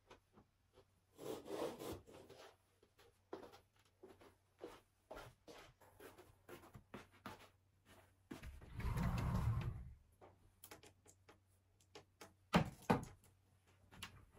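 Household handling sounds: scattered small clicks and knocks, a brief rustle about a second in, a longer louder scraping rustle a little past the middle, and two sharp knocks near the end.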